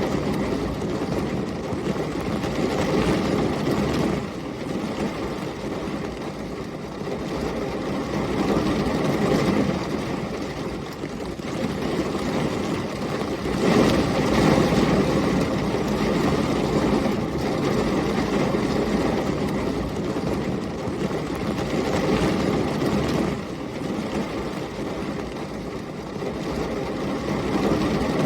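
Heavy rain and storm wind: a dense, steady rushing noise with a low rumble underneath, swelling and easing every few seconds, loudest about halfway through.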